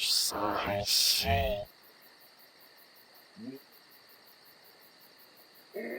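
A person's voice groaning and gasping with breathy exhalations for the first second and a half, a short rising vocal sound about three and a half seconds in, and a voice again near the end, over a faint steady chirring of crickets.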